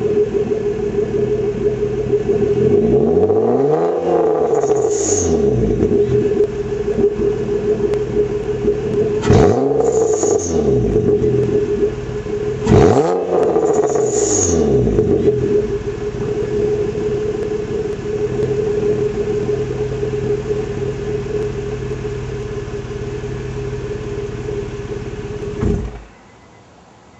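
2004 Nissan Maxima's V6 running through a cat-deleted Greddy SP2 exhaust with a Y-pipe: idling, revved up and back down three times, then switched off near the end.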